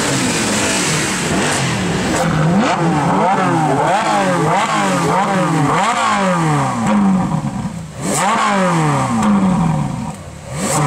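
Stock Ferrari 458 Italia's naturally aspirated V8 revved again and again, each rev climbing quickly and falling back, with brief lulls near the end.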